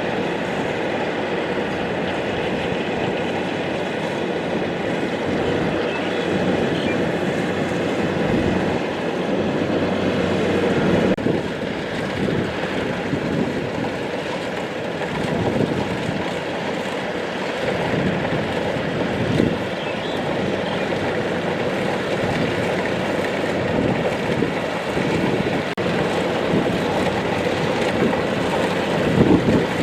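Kubota DC-70 Plus combine harvester running steadily while cutting rice, its diesel engine and threshing machinery making a continuous mechanical din with small rises and dips.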